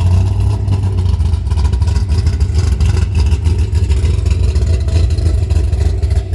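Race-prepared car's engine running through big exhaust pipes, a steady deep rumble that sounds tough.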